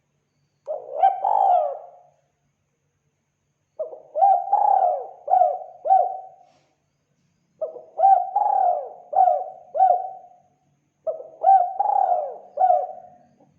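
Spotted dove cooing: four phrases of several low, bending coos each, a short one about a second in, then three longer ones a couple of seconds apart.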